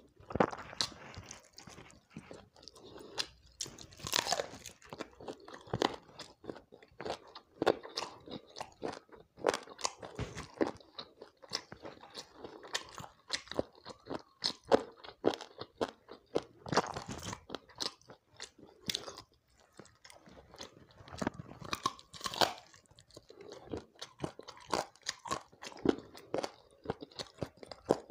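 Close-miked crunching and chewing of a fried chicken leg piece: irregular crisp crunches from bites and tearing, with wet mouth sounds between them.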